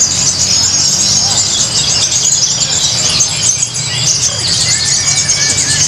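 Many kolibri ninja sunbirds singing at once: a dense, continuous high-pitched chatter of quick chirps and trills, over a steady low hum.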